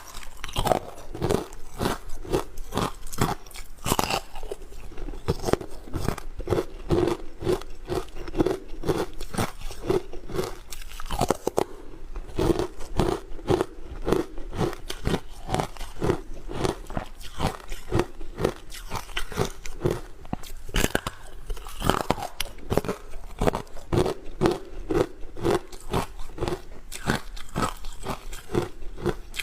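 Close-miked crunching of hard frozen ice being bitten and chewed: quick, sharp cracking crunches, several a second, without a break.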